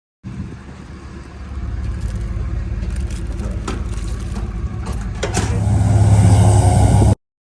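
Car engine running with a steady low rumble, a few sharp clicks midway, growing louder near the end.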